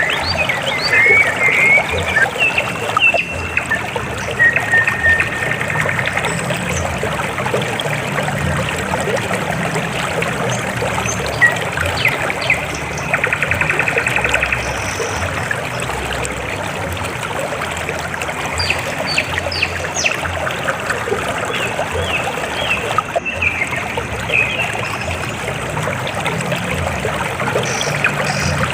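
River water flowing and trickling steadily, with short high chirps and a few rapid trills over it.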